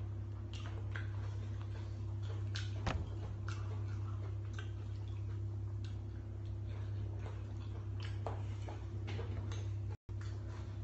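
Someone chewing meat with the mouth open: irregular wet smacking clicks, about one or two a second, over a steady low hum. The sound cuts out for an instant near the end.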